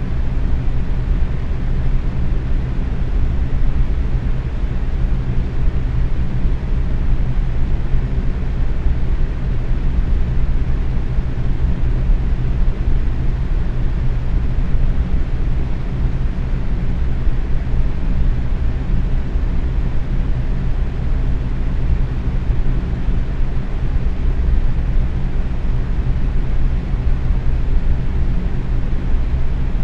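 Box fan running steadily at medium speed: a constant rush of air with a low hum underneath, unchanging throughout.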